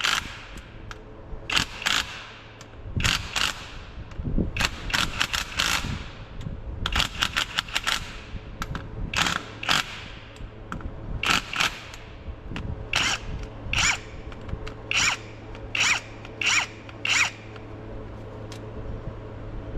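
Short scraping strokes repeated in irregular runs, about one or two a second, over a steady low hum.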